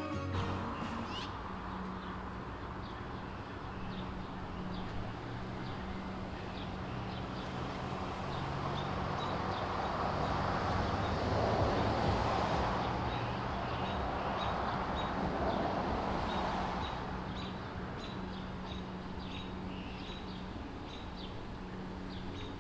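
Ambient background: a steady low hum with many short, high chirps. A broad rushing noise swells up in the middle and then fades away.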